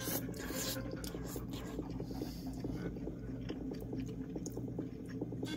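A person eating a forkful of spicy instant yakisoba noodles: a quick slurp as the noodles go in, then steady chewing with many small irregular wet mouth clicks.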